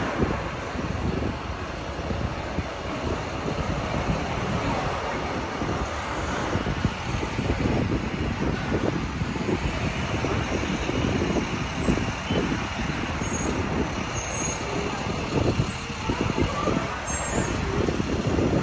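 Busy city street noise: steady traffic with trucks and buses going by.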